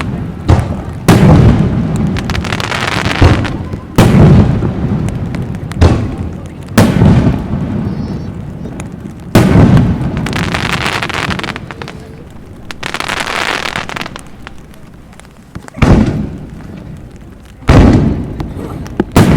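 Aerial fireworks shells bursting in the sky: a series of sharp booms every few seconds, each trailing off over a second or two. There is a brief lull in the middle, then more bursts near the end.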